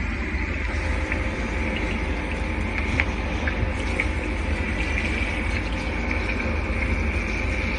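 Motor in the top of a commercial refrigeration unit running steadily: a constant low hum under a thin high whine, with a few faint ticks. It is the noisy motor that is running warm and due to be replaced.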